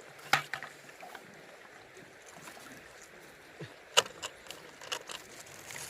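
A few sharp knocks and clicks of hard objects being handled, the loudest about four seconds in, over a faint steady rush of river water.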